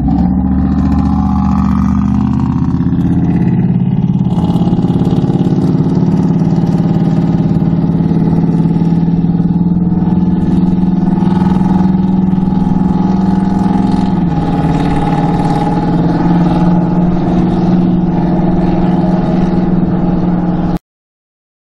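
Car engine and road noise heard from inside the car as it pulls away from a stop and accelerates, the engine note rising at first and then holding steady, with a change in tone about two-thirds of the way through. The sound cuts off suddenly near the end.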